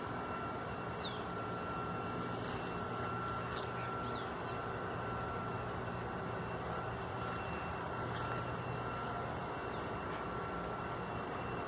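A few short, high, falling bird chirps, the clearest about a second in, over a steady background hum and noise.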